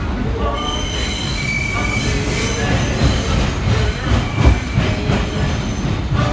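C subway train running, its wheels squealing in several high, steady tones over the low rumble of the car, with scattered knocks in the middle.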